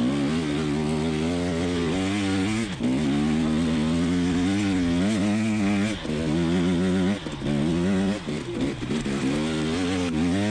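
KTM 300 XC TPI two-stroke dirt bike engine running under a rider, its pitch rising and falling with the throttle and briefly dropping away a few times as the throttle is rolled off.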